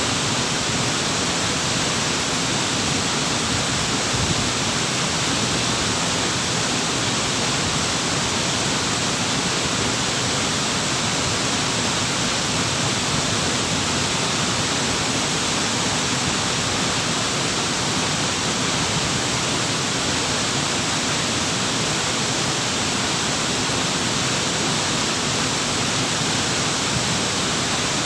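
Waterfall: water pouring and splashing in a dense, even rush that holds steady throughout.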